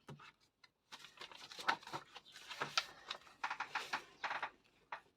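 Paper and desk items being handled: a run of short rustles, scrapes and taps, busiest in the middle seconds.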